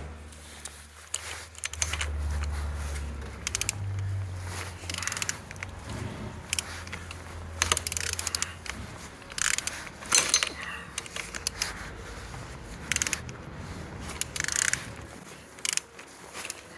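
Opel Z16XER 1.6-litre four-cylinder engine being turned over by hand with a wrench to check compression: irregular metallic clicks and short scraping bursts from the tool, over a low hum that stops near the end.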